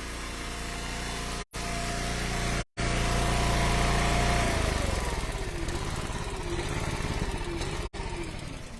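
Gas engine of a log splitter running steadily, then shut off about four and a half seconds in and sputtering as it winds down, the sound tapering away near the end.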